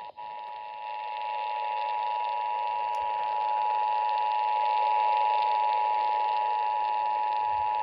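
NOAA Weather Radio attention signal: a steady two-note alert tone broadcast for about eight seconds, heard through a radio receiver, marking the start of a severe thunderstorm warning. It begins abruptly, grows louder over the first second and then holds steady until it cuts off.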